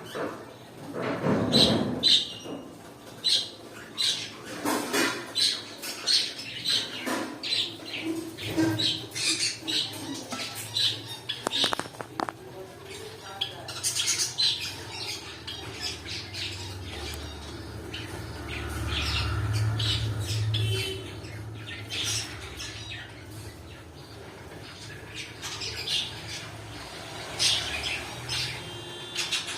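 Cockatiels calling over and over with short, shrill squawks and chirps. A low hum rises for a few seconds in the middle.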